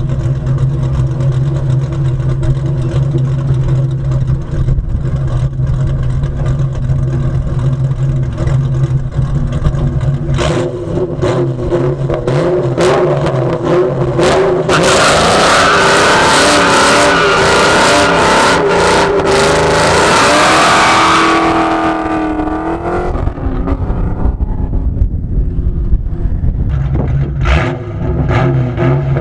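Cammed 4.6 V8 of a Ford Mustang GT, PI-swapped with Comp Cams 262 camshafts and SLP LoudMouth exhaust, idling. It then revs hard for a burnout, with tyre squeal from about 14 to 21 seconds, before the revs fall back to idle near the end.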